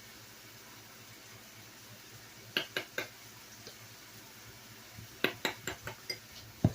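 A utensil clinking against a dish while mayonnaise is scooped for fry sauce. There are three quick clinks about two and a half seconds in, a faster run of clinks around five seconds, and a low knock near the end.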